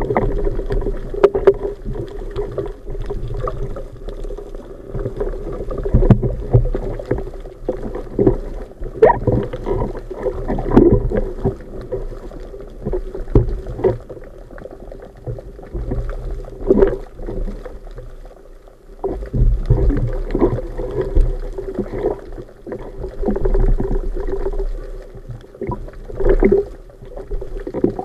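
Muffled underwater sound of a spearfishing dive as the camera picks it up: water moving past the housing with irregular knocks and gurgling over a steady low hum.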